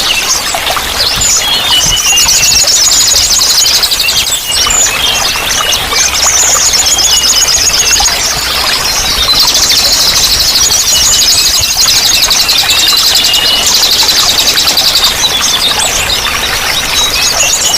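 Small songbirds singing long, rapid, high-pitched trills in repeated runs, with shorter chirps between them, over a steady wash of running water.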